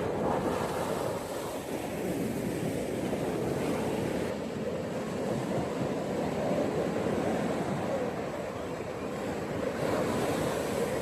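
Ocean waves breaking and washing on a beach, a continuous surf noise that swells and eases slowly.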